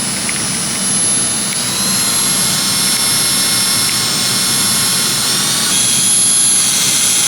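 Power drill boring out a broken bolt in metal: a loud, steady high-pitched whine, its pitch shifting slightly twice as the drill works.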